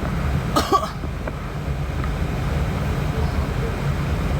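Steady low rumble of airflow and engines in an airliner's cockpit in flight, with a single short cough about half a second in.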